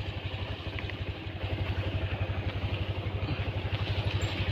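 A small engine idling with a steady, fast, even beat that grows a little louder about a second and a half in.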